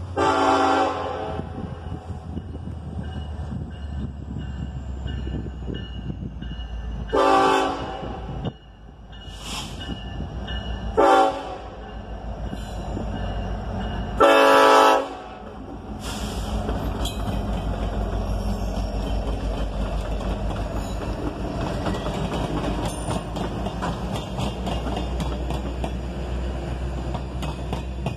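Norfolk Southern diesel locomotive leading a track geometry train, sounding its horn for a grade crossing in the long, long, short, long pattern. It then passes with a steady low engine rumble and wheels clicking over the rails.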